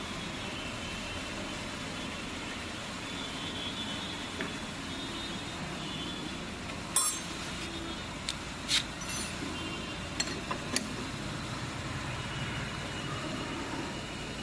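A steady mechanical hum, with a handful of sharp metallic clinks about halfway through, the first the loudest.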